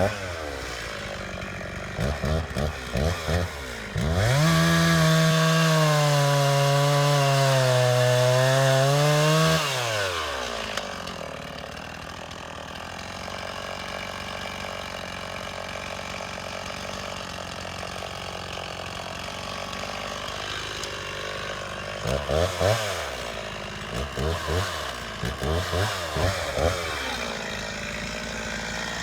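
Chainsaw blipped in a few short revs, then held at full throttle for about five seconds as it cuts into the trunk of a large tree, dropping back to a steady idle. Near the end it is revved again in quick blips.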